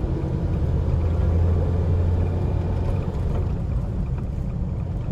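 Inside the cabin of a moving taxi: a steady low rumble of engine and road noise, rising a little for a couple of seconds early on.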